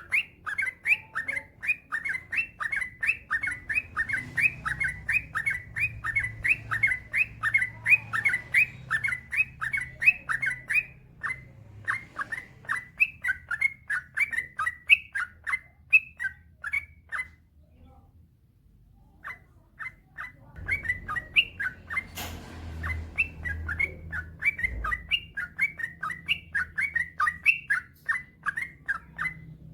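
Yellow-vented bulbul (trucukan) singing a long, rapid run of short chirping notes, several a second. The song breaks off for about two seconds just past the middle, then resumes. A single sharp click sounds shortly after it resumes.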